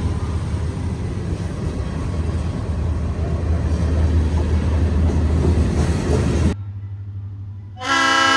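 Diesel freight locomotive running with a steady low rumble, which cuts off abruptly. After about a second of quieter hum, a locomotive air horn starts blowing near the end, a chord of several steady tones.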